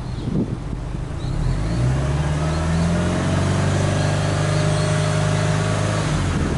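Subaru Impreza WRX STi's turbocharged EJ20 flat-four heard at the tailpipe, revved with no load. About a second and a half in the revs rise and are held steady for about four seconds, then drop back near the end.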